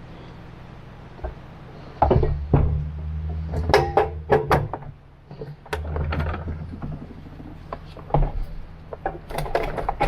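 Battery-powered water pump of a Zodi Hot Tap portable water heater running with a low hum. The hum gets louder about two seconds in, stops briefly a little past the middle, then starts again. Sharp clicks and knocks from handling the unit come over it.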